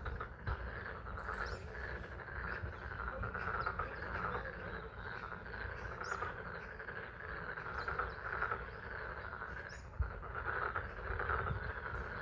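A chorus of many frogs calling without pause from a pond, pulsing in a dense wall of overlapping calls, with spring rain falling.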